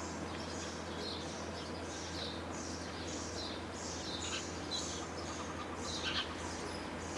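House sparrows chirping in a continuous run of short, high chirps, several a second, over a low steady hum.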